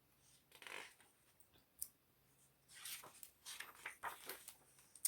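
Faint rustling of picture-book pages being handled and turned: a soft rustle, a light click just under two seconds in, then a longer run of papery rustling.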